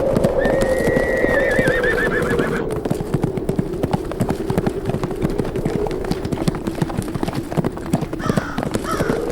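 Horses galloping, a dense run of hoofbeats, with a horse neighing about half a second in, its call ending in a quavering whinny, and another neigh near the end. A steady howl of wind runs underneath.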